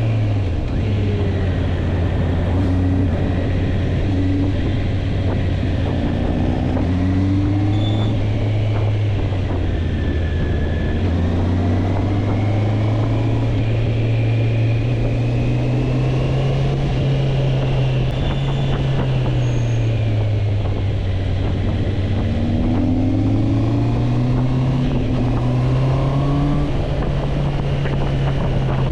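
Motorcycle engine running while riding, its pitch rising and falling gently over several seconds as the speed changes.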